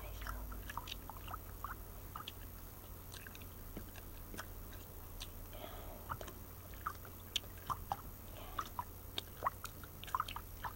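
Chewing gum close to the microphone: irregular wet mouth clicks and smacks, a few of them sharper near the end.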